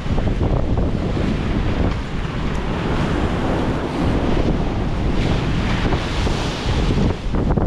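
Rough sea waves breaking and washing in, with strong wind buffeting the microphone as a steady low rumble; the wash swells into a louder hiss about five seconds in.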